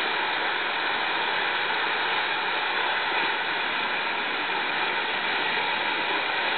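Lit ground firework burning with a steady, even hiss as it sprays sparks.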